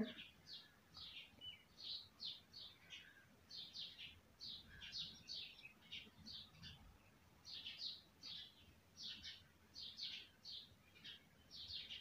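Faint bird chirps, short high notes repeating irregularly about twice a second over near silence.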